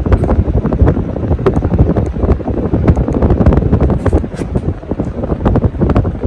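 52-inch Hunter Low Profile II ceiling fan running, its airflow blowing across the microphone as a loud, gusty rumble with crackling.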